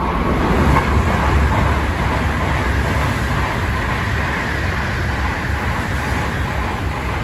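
Tokaido Shinkansen N700-series train passing through the station without stopping at around 185 km/h: a loud, steady rush of wheel and air noise over a deep rumble, loudest about a second in.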